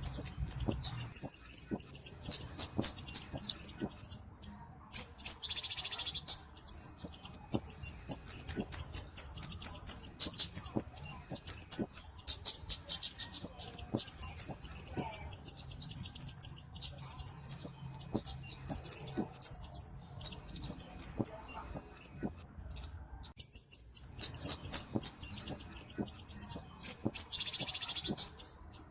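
Kemade cabe-cabean songbird singing: long runs of fast, high, thin chips and twitters, broken by short pauses. Twice, about five seconds in and again near the end, a brief raspy buzz sounds.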